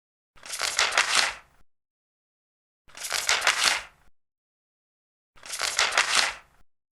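Large paper pages being turned, three separate rustling page turns about two and a half seconds apart, each lasting a little over a second, with silence between.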